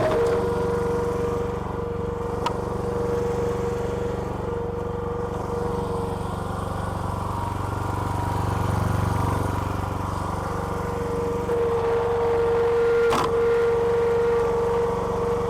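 Small petrol engine of a homemade hydraulic log splitter running steadily. A whine over it fades out in the middle and comes back stronger, and there is a sharp knock near the end.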